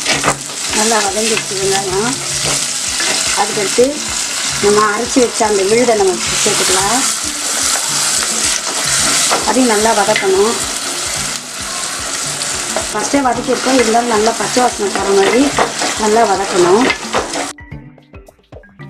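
Shallots and green chillies sizzling in hot oil in a clay pot (mann chatti), stirred with a wooden spatula that scrapes and squeaks against the pot as a ground paste is worked in. The sizzling cuts off suddenly near the end.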